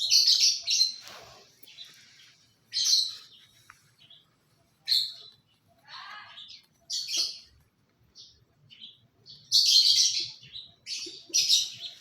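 Pet cockatiel and African lovebirds chirping and screeching in short, high-pitched bursts every second or two, with a loud run of calls about ten seconds in.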